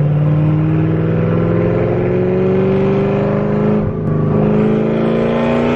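Car engine pulling under acceleration, its pitch climbing slowly and steadily, with a brief dip about four seconds in before it climbs again.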